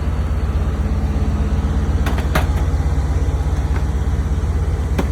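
Chevrolet TBI 350 V8 with headers, idling steadily in a 1987 Chevy V30 one-ton truck. A few sharp clicks come about two seconds in and again near the end.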